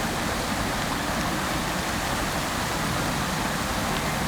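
Park fountain's water jets falling into the basin: a steady, even rush of splashing water.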